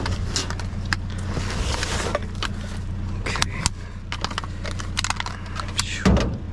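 Trash being rummaged through in a dumpster: scattered clicks, rattles and rustles, with a louder thump about six seconds in, over the steady low hum of an idling vehicle engine.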